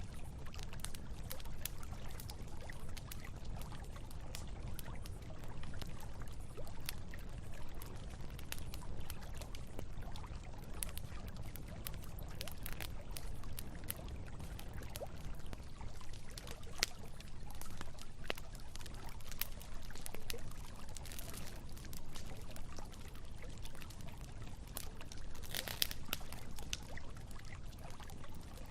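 Campfire crackling with scattered sharp pops over the steady rush of flowing river water, with a brief louder burst of hiss near the end.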